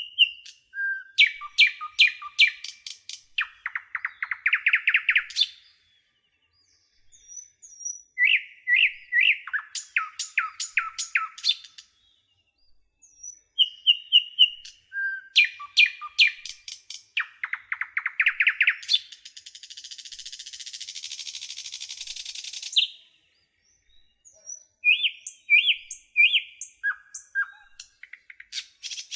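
A songbird singing the same phrase over and over, about every six to seven seconds. Each phrase is short whistled notes, a run of quick clicks and a fast trill, and the middle of the clip has a harsh rasping stretch of several seconds.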